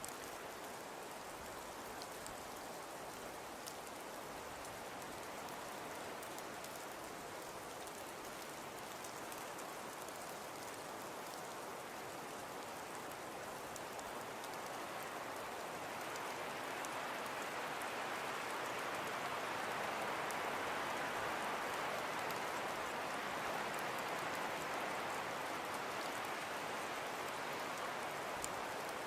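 Wood fire burning in a fireplace: a steady hiss scattered with small crackles and pops, growing louder about halfway through.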